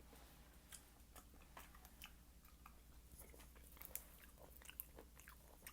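Faint wet chewing and mouth smacks of a person eating cherries, a scatter of short clicks several times a second.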